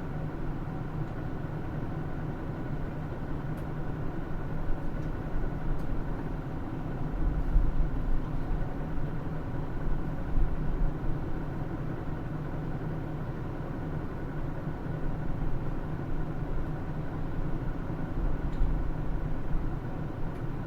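Hino Rainbow II city bus's diesel engine running steadily, with a low rumble and light road bumps.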